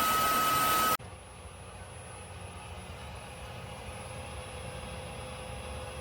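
Dreame H12S cordless wet-dry vacuum mop running with a steady motor whine. About a second in, the sound cuts off abruptly to a much quieter steady hum.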